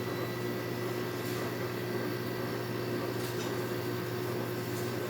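Hampton Bay 5000 BTU window air conditioner running, its LG compressor and fan making a steady hum with a thin high whine over it, as the unit starts to blow cold.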